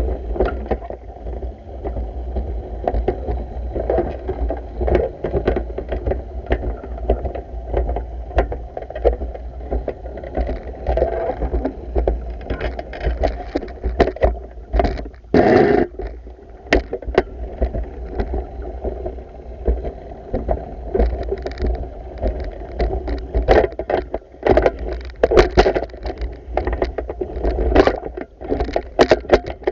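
Pool water sloshing and splashing as the pool is vacuumed, over a steady low rumble, with frequent small knocks and clatters and a louder splash or knock about halfway through.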